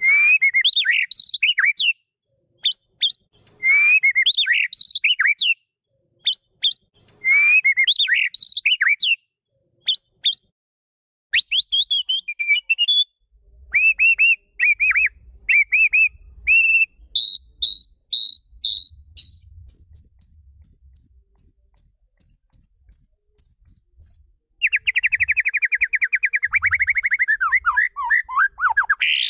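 White-rumped shama (murai batu) song: three loud, varied whistled phrases in the first nine seconds, then strings of short repeated whistles and a fast trill that falls in pitch near the end.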